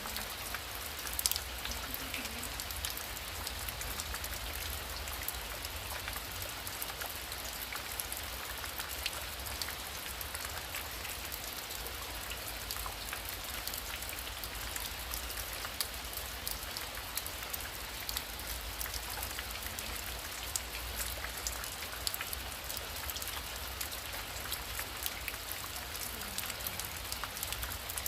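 Heavy rain falling steadily, with many individual drops striking a surface, and a low steady rumble underneath.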